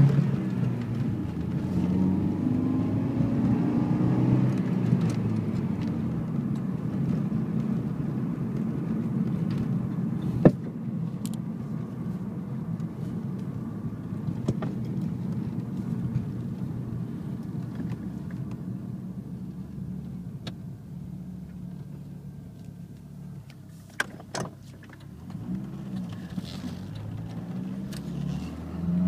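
Car engine and exhaust heard from inside the cabin while driving: it revs up and eases back in the first few seconds, then settles to a steadier, quieter cruise, and picks up again near the end. A few sharp clicks cut through, about ten seconds in and twice around twenty-four seconds.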